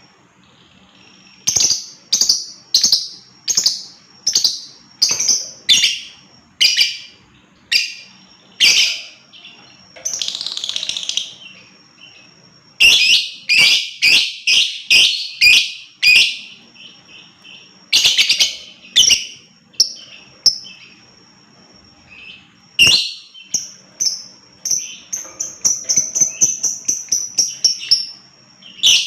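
Lovebird (Agapornis) calling with shrill, sharp chirps in quick runs separated by short pauses. A faster, denser run of chirps comes near the end.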